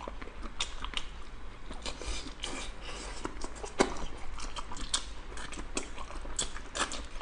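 A person chewing and biting a mouthful of garlic-steamed abalone meat, with many irregular mouth clicks and smacks.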